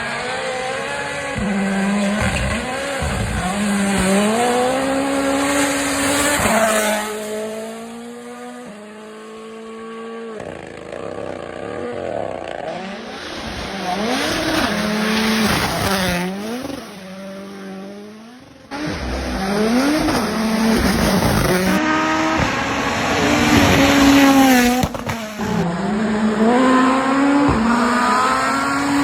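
Rally cars driven flat out, one after another: engines revving hard and climbing in pitch, then dropping at each gear change, with tyre noise. The sound changes abruptly every few seconds from one car to the next.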